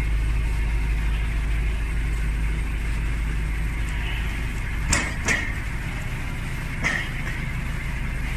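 A vehicle engine idling steadily, with three sharp metallic knocks about five, five and a half and seven seconds in.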